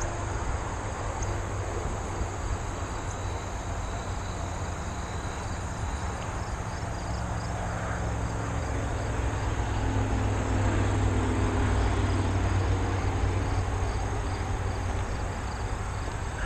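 Steady low rumble and hiss of riding a recumbent bicycle up a rail trail, with a steady, high insect chorus.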